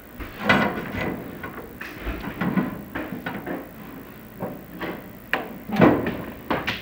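A series of irregular knocks and scrapes, hard objects bumping and rubbing, with the loudest knocks about half a second in and near the end.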